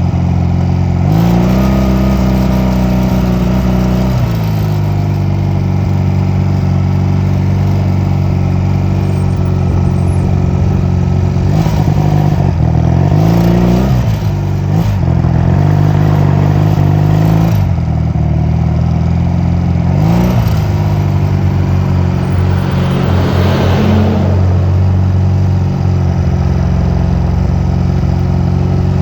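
Honda 250cc motorcycle engine running under way. Its note climbs about a second in, drops near four seconds, then rises and falls several more times as it accelerates and changes gear.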